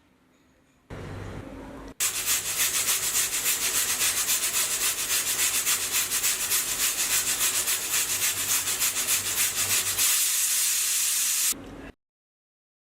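Pressure cooker whistling as it comes to pressure: a loud hiss of escaping steam that pulses about four times a second, then settles into a steadier hiss before cutting off suddenly near the end. It signals that the cooker has reached pressure and the flame should be turned down.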